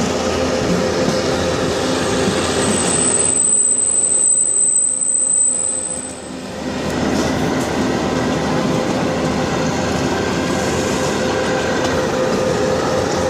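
Kalka–Shimla narrow-gauge train running, heard from a coach: a steady rumble and clatter of wheels and carriages, with a thin high-pitched wheel squeal from about three to six seconds in as the train rounds a curve. The noise dips briefly about six seconds in, then carries on.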